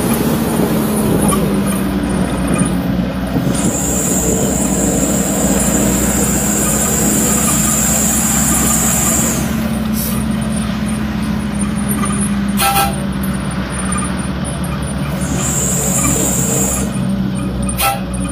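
Truck driving on the road: a steady engine hum and road noise, with a high thin whine that comes and goes. Two short sharp knocks, one about two-thirds of the way through and one near the end.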